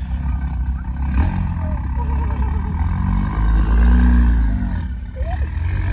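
Car engine running with a deep exhaust rumble; about three to five seconds in, one engine's note rises and falls again as it revs or drives past, and this is the loudest moment.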